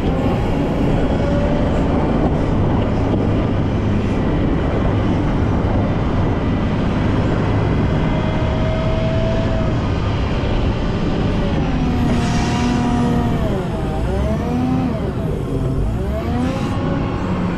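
Volvo L90F wheel loader's diesel engine running steadily while clearing snow, with a whine that rises and falls in pitch several times in the last few seconds as the machine works.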